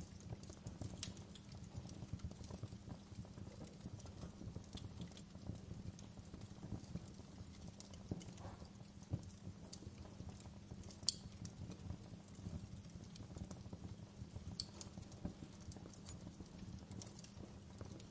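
Fire crackling steadily, with many small irregular pops over a low rumble and a couple of sharper snaps partway through.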